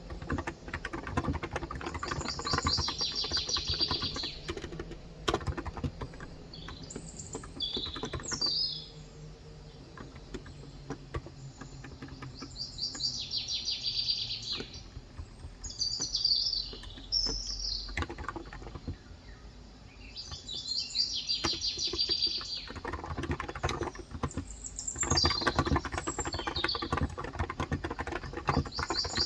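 Birds singing in short repeated phrases, about half a dozen, over steady typing on a Cox Endeavor 35 g electro-capacitive tenkeyless keyboard. The key clicks thin out for a moment twice.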